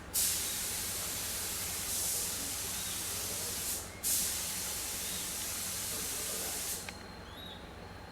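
Water spray from an animatronic Asian elephant model, hissing in two long bursts separated by a brief break about four seconds in. It stops a little before the end.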